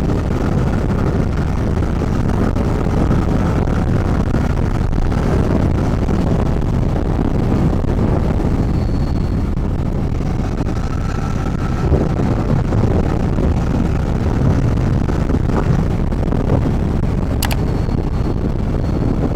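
Motorcycle riding at road speed, heard from a helmet-mounted camera: steady engine and road noise with wind rushing over the microphone. A little before the end comes one sharp tick as an insect strikes the helmet.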